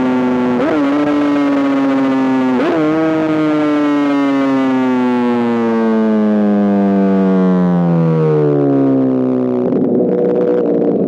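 2005 Honda CBR1000RR's inline-four engine through an SC Project exhaust. The revs hold steady, then jump briefly twice, each quick blip leaving them a little higher. The revs then fall steadily for about six seconds as the bike slows, settling into a rougher, lumpier low-rpm note near the end.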